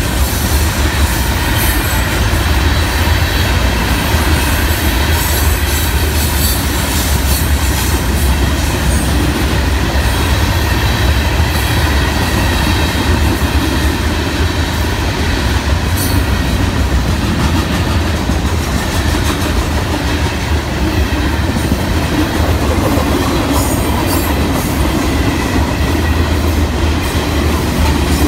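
Freight cars of a CSX train, coal hoppers and boxcars, rolling past close by: a steady loud rumble of steel wheels on the rails, with repeated clicks as the wheels cross rail joints.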